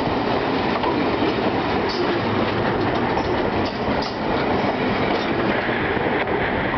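Vintage interurban passenger cars rolling past at close range: a steady rumble of steel wheels on the rails, with irregular clicks from the rail joints.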